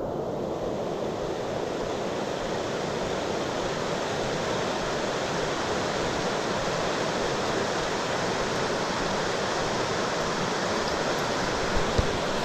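Steady rush of a fast-flowing creek, an even noise that does not change, with two brief low knocks near the end.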